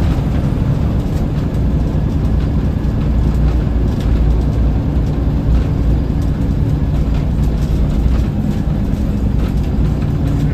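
Scania L94UB bus's diesel engine running steadily, a deep drone heard from inside the cabin, with scattered light rattles.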